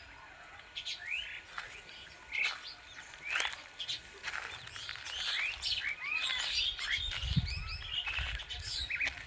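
Several wild birds chirping and calling over one another, in quick short rising chirps and whistled notes, with a few sharp clicks among them. A low rumble comes in near the end.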